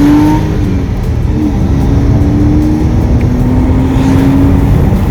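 Porsche 986 Boxster flat-six engine accelerating hard from inside the cabin, its note rising through the gears with upshifts about a second in and about three seconds in, climbing again after each.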